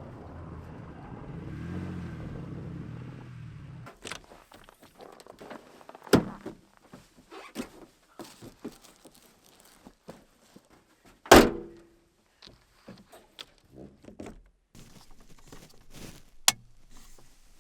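Pickup truck driving, a steady low rumble of engine and road noise, which stops about four seconds in. A string of scattered knocks and thunks follows as doors and gear are handled at the parked truck, the loudest a single heavy slam a little past the middle that rings briefly.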